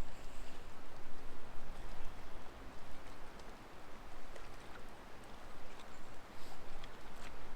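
Wind rumbling on the microphone, with water lapping against a boat hull and a few faint clicks.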